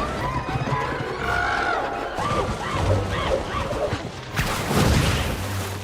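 Film action-scene audio of an attack: shouting and shrieking voices over a music score, with a loud crash about four and a half seconds in.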